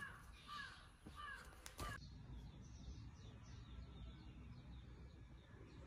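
Faint bird calls: four short calls about two-thirds of a second apart, then only faint high chirping after about two seconds.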